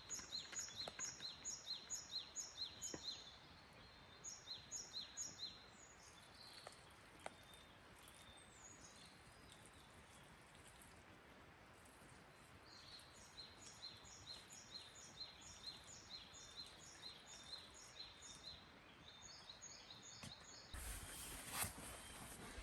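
A songbird singing runs of short, high, evenly repeated notes, about three to four a second, in several bouts with pauses between, over faint outdoor hiss. Near the end a louder rustling starts.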